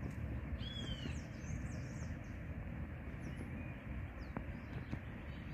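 Birds chirping over a steady low outdoor rumble, with a cluster of quick high chirps about a second in and a few more around the middle.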